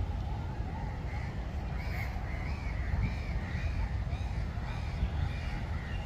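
A bird calling over and over in short arched calls, about two a second, over a low steady rumble.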